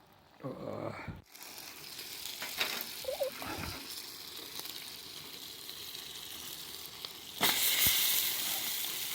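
Steady sizzling hiss of something cooking over a campfire, turning louder about seven seconds in.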